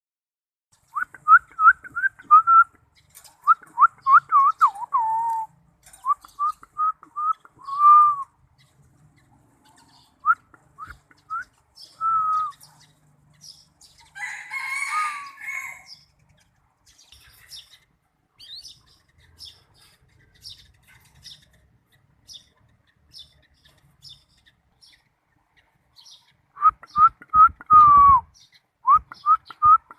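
Lovebird chirping in quick runs of short whistled notes with pauses between them, and a harsher call of about two seconds around the middle. Fainter, higher chirps come in the second half.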